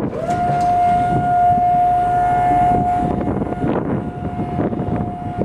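Electric hydraulic pump motor of a tuck-under truck lift gate whining as the gate is stowed: it spins up to a steady high whine within a fraction of a second, then turns fainter about three seconds in.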